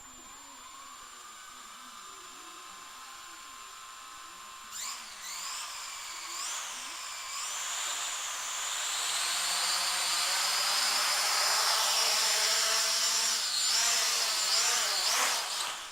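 Hubsan H502S quadcopter's motors and propellers spinning up about five seconds in: a high whine that rises and dips with the throttle, holds high, wobbles again and cuts off near the end. It is a test run after the drone's receiver board was replaced.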